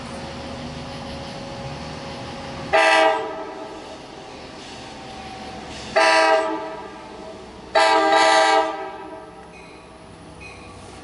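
Long Island Rail Road diesel train's horn sounding three blasts: one about three seconds in, one about six seconds in, and a longer one soon after. Under them is the steady running rumble of the train.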